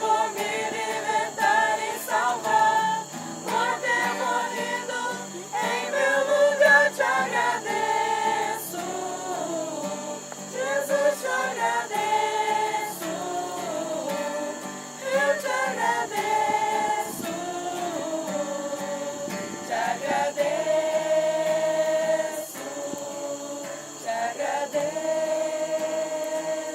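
A group of people singing a slow Christian hymn together, holding long notes.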